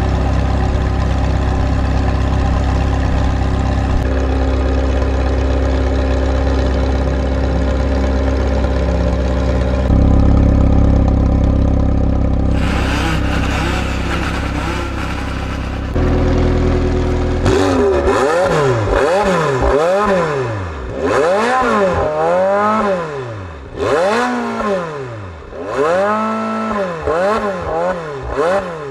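McLaren 720S twin-turbo V8 with a Capristo exhaust running steadily at a low, even pitch. About two-thirds of the way in it switches to a run of sharp rev blips, roughly one a second, the pitch of each rising and falling back.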